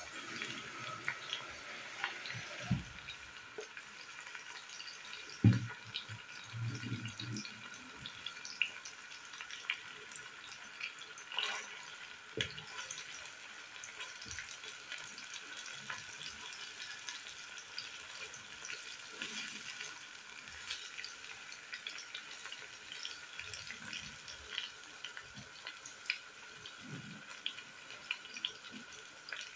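Chicken thighs and onion sizzling in oil in a stone-coated pot, a steady crackle with many small pops. Now and then a wooden spatula knocks and scrapes against the pot, the loudest knock about five seconds in.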